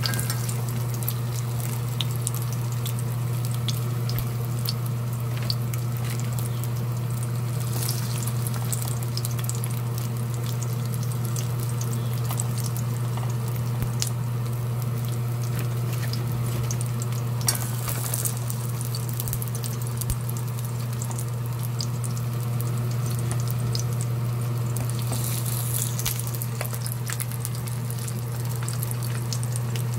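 Battered pork pieces sizzling and crackling steadily in hot oil in a frying pan, with occasional sharper clicks. A steady low hum runs underneath.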